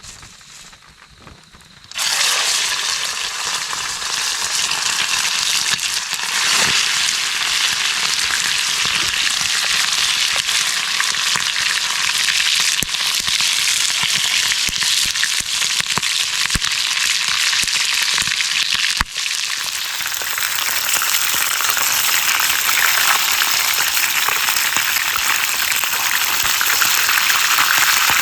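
Chicken drumsticks frying in hot oil: a loud, steady sizzle that starts suddenly about two seconds in as the meat goes into the oil.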